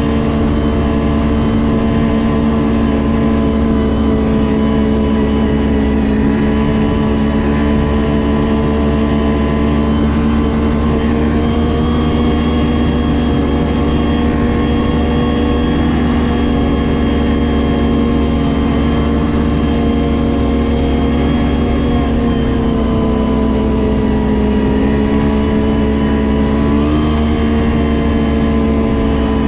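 Ski-Doo GSX 600 HO snowmobile's two-stroke twin engine running at a steady, even speed under way. The pitch eases down a little and comes back up a few times near the end.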